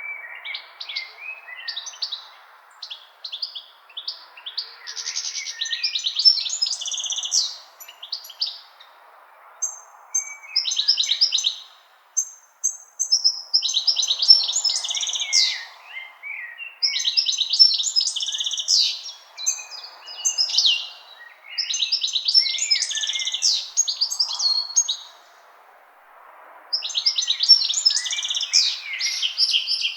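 Songbird singing: rapid, varied phrases, each a few seconds long, separated by short pauses, over a faint steady background hiss.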